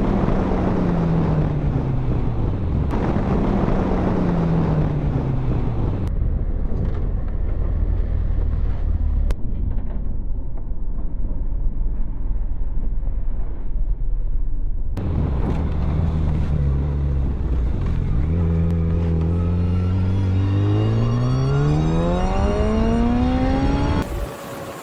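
Motorcycle engine under heavy wind rush on the camera microphone. The engine note falls twice as the bike slows, holds steady for a while, then climbs steadily for several seconds as it accelerates. Near the end it cuts off suddenly to a quieter engine.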